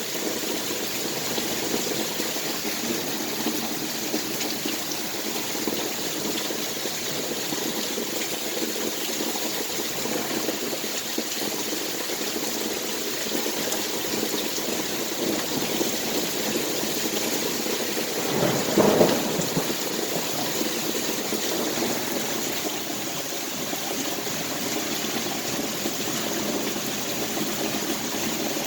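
Heavy rain pouring steadily during a thunderstorm, with one short, louder burst about two-thirds of the way through.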